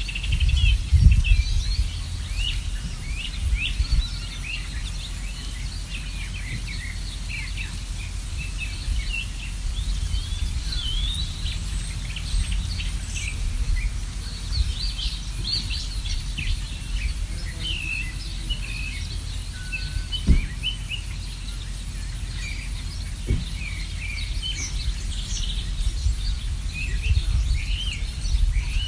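Many small birds chirping and tweeting in a busy, overlapping chorus of short high calls, over a steady low rumble that is louder in the first two seconds. Two brief knocks come about 20 and 23 seconds in.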